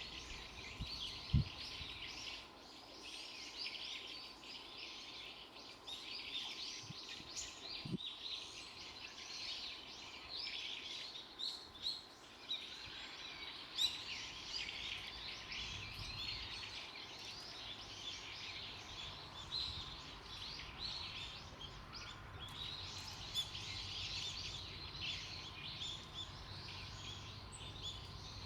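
Birds chirping in a continuous, dense chatter of short high calls.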